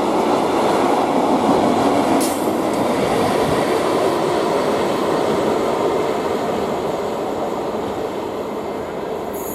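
Freight train's wagons running past at close range, a dense steady rumble of wheels on rail with a brief sharp click about two seconds in; the noise slowly fades over the last few seconds as the end of the train draws away.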